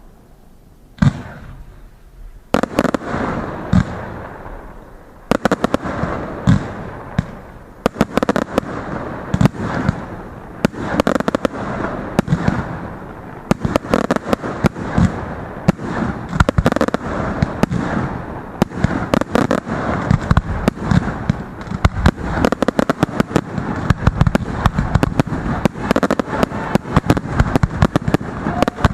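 Fireworks finale: a single bang about a second in, a few more soon after, then from about five seconds in a continuous barrage of rapid bangs and crackling.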